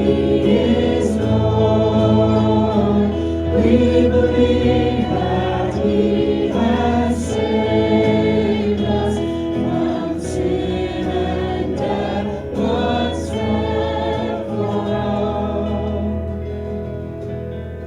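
Choir singing a contemporary Christian worship song over a steady low accompaniment, fading down near the end.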